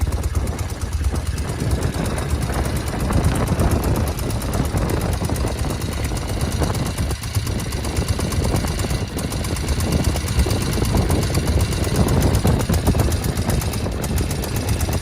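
1975 Norton Commando's air-cooled parallel-twin engine running steadily at idle, a fast even beat with little change in level.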